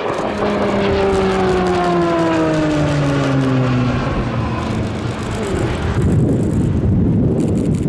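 Military aircraft making a fast pass: a loud pitched drone that slides steadily down in pitch over about four seconds as it goes by, then a broad rushing roar.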